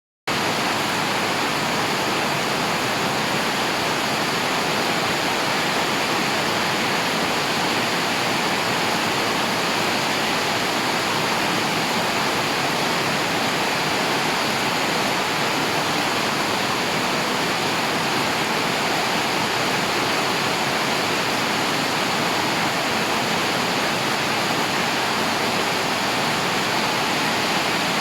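Steady heavy rain, an even hiss with no separate drops, thunder or other sounds standing out.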